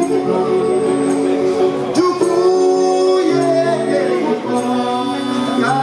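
Live afropop band music: a lead melody of long held notes that step between pitches and bend now and then, over a dense, steady accompaniment.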